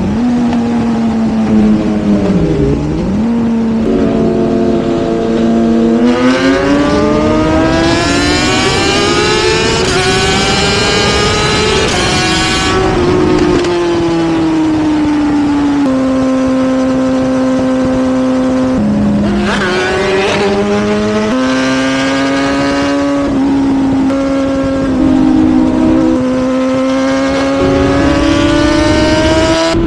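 Sportbike engine at speed under hard acceleration: its note climbs steadily for about six seconds, then drops at a gear change and holds at a steadier pitch, with further dips and steps as it shifts. Wind and road noise run underneath.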